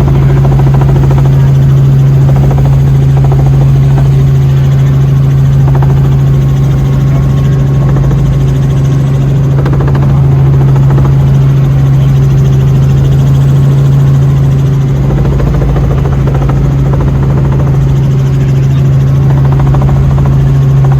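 Helicopter running: a loud, steady low drone of engine and rotor that holds its pitch throughout.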